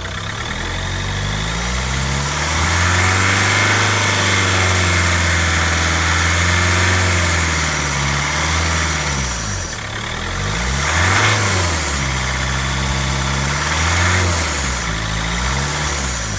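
Ford Mondeo Mk4 2.0 TDCi four-cylinder diesel engine revved up from idle and held for several seconds, dropped back, then blipped twice more. A hiss comes with the revs and the engine belts whir; the owner cannot account for the hiss, which he hears on overrun and lift-off.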